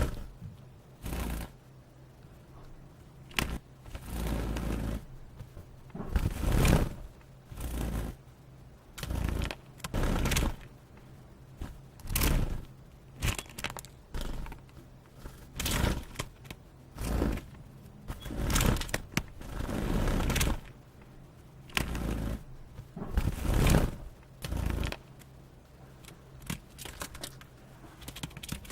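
Song sparrow fluttering and scrambling inside a wire cage: brief bursts of wing-beating and scraping, each under a second, about every one to two seconds.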